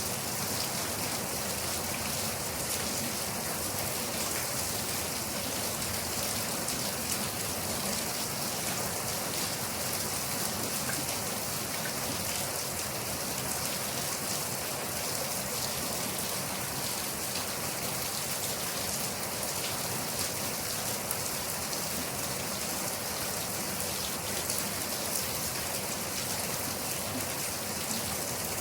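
Steady rain falling, an even hiss with many small drop patters throughout and no thunder.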